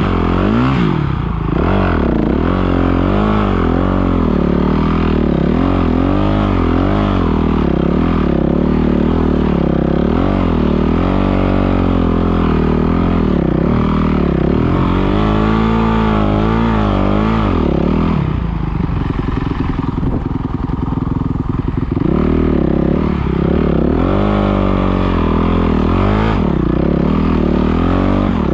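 Dirt bike engine revving up and down again and again with the throttle. About two-thirds of the way through it eases to a lower, steadier note for a few seconds, then picks up again.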